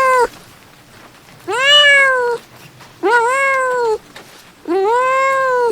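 A cat meowing over and over: long meows of about a second each, one ending just after the start and three more following at steady intervals of about a second and a half.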